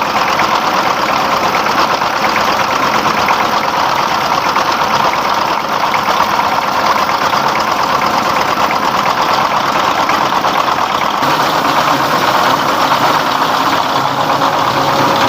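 Rice-milling machine running, driven by a 24 hp 'dompeng' single-cylinder diesel engine: a steady loud mechanical din with rapid engine knocking and the whir of the huller and husk-blowing fan.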